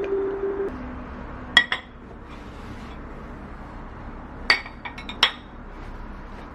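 Glass or ceramic tableware clinking: two sharp ringing clinks about a second and a half in, then a quick run of four more clinks around four and a half to five seconds in.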